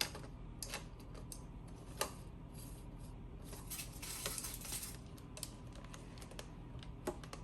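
Faint, scattered small clicks and taps of tableware and a smoothie cup being handled.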